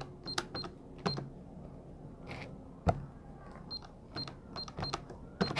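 Short electronic beeps at irregular intervals, like keys pressed on a beeping keypad: the 'ti, ti, ti' noise her grandfather makes. A few light clicks and knocks come between them, the loudest about three seconds in.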